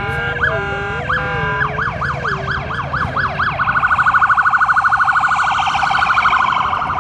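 Emergency vehicle siren sweeping up and down in a quickening yelp, then switching a little past halfway to a rapid warbling tone, the loudest part. A low steady rumble runs underneath.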